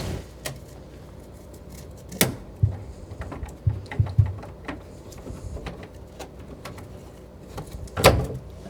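Scattered clicks and knocks as CPVC supply pipe and tools are handled in a tight space right after a cut. There is a sharp knock about two seconds in, a few dull thumps soon after, and another sharp knock near the end.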